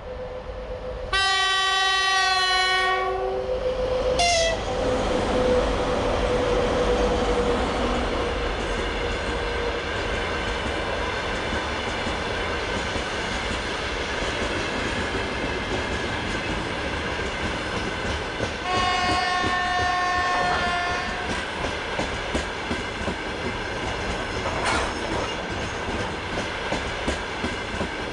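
VL80S electric locomotive hauling a freight train of open gondola wagons sounds a loud horn chord about a second in and another near two-thirds through. Between them the wagons roll past steadily, with clickety-clack of wheels over the rail joints growing more distinct toward the end.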